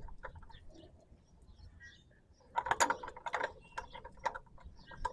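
Metal hand tools clicking and clinking on a fuel line fitting as it is worked to stop a leak. A quick run of sharp clicks comes about two and a half seconds in, with a few scattered clicks after it.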